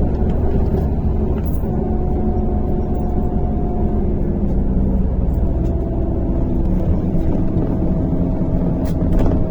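MAZ-103 city bus under way, heard from inside: a steady engine and road rumble with a faint whine from the drivetrain. The whine breaks off about four seconds in and returns at a slightly lower pitch.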